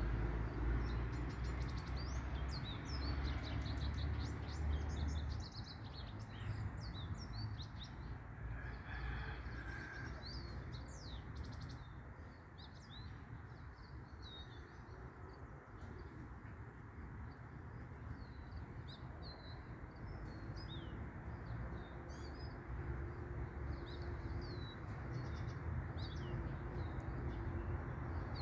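Small birds chirping in many short, quick calls, busiest in the first half, over a steady low background rumble.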